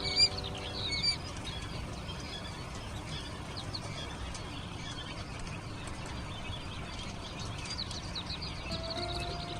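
Young chicks peeping, many short high cheeps, loudest in a burst about a second in and again in a quick run near the end. Faint background music notes sound at the start and near the end.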